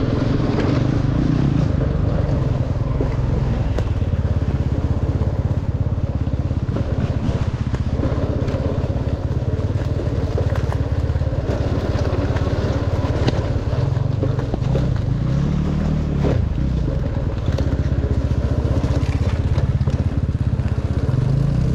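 Dirt bike engine running steadily while riding a trail, with a brief rise and fall in pitch from the throttle about three-quarters of the way through.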